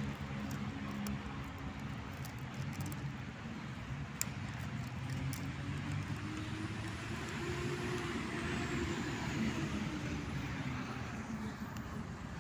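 A motor vehicle's engine running steadily, its pitch rising and then falling partway through as it passes. A few faint clicks come before it.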